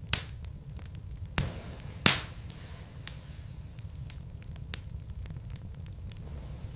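Wood logs burning in a fireplace, crackling: sharp pops and snaps over a low steady rumble of the flames. The loudest pops come in the first couple of seconds, followed by smaller scattered clicks.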